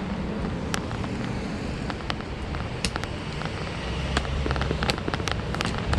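Handling noise on the camera's microphone while a tripod is adjusted: irregular sharp clicks and knocks over a steady rumble that grows heavier in the second half.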